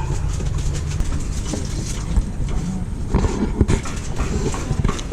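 Steady low drone of machinery aboard a fishing boat, with a few short knocks about three seconds in.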